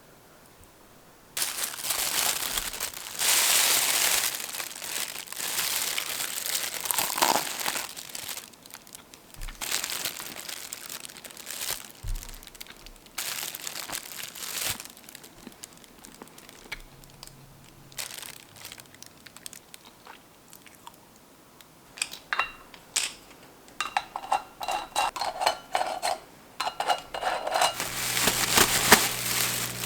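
Crinkling and rustling in long noisy stretches, followed by a run of quick clicks and knocks in the last third.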